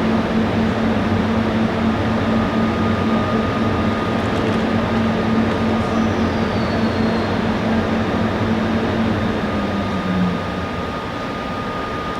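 Standing train's onboard equipment running with a steady hum and a pitched drone; about ten seconds in the drone dips in pitch and cuts out, leaving a quieter steady hum.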